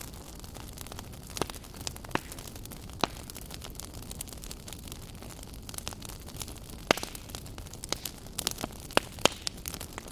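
Wood fire burning in a fireplace: a steady low hiss with irregular crackles and sharp pops, a cluster of louder pops near the end.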